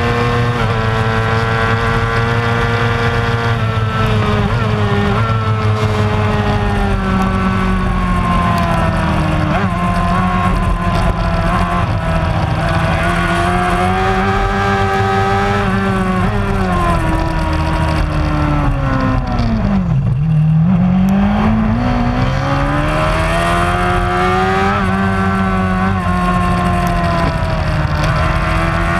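Racing motorcycle engine running hard at high revs, its pitch rising and falling as it accelerates and shifts. About twenty seconds in the pitch drops sharply, as if braking for a corner, then climbs again.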